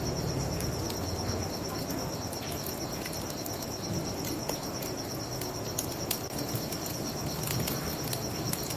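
Crickets chirping in a steady, high, pulsing trill over the crackle and pop of a wood bonfire, with a low, steady rushing beneath.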